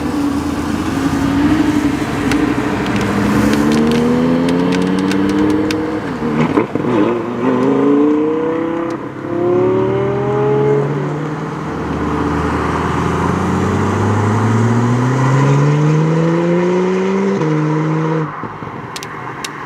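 Performance car engine accelerating hard through the gears, its pitch climbing in long rises that drop sharply at each upshift, several times over, then falling away near the end.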